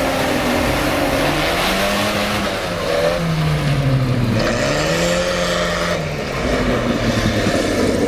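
Tractor engine revving up and down over and over while drifting, its pitch rising and falling every second or two over a steady noisy rush.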